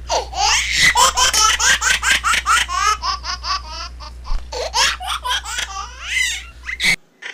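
Laughter laid on as a comedy sound effect: a quick run of high-pitched laughs over a low steady hum, cutting off suddenly near the end.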